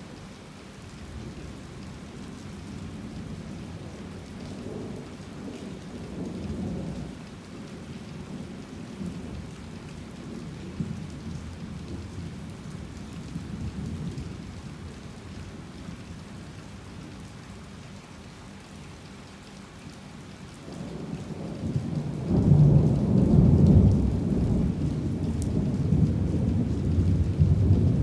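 Heavy rain falling steadily under rolling thunder; the thunder rumbles low throughout and swells into a much louder, long rumble about three quarters of the way through.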